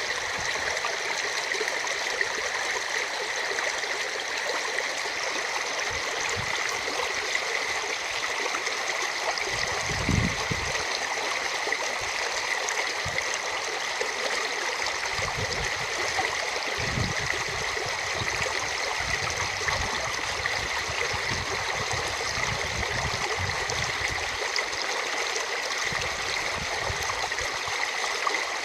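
A rain-swollen river rushing steadily over its bed, with a few brief low rumbles about a third of the way in and again past the middle.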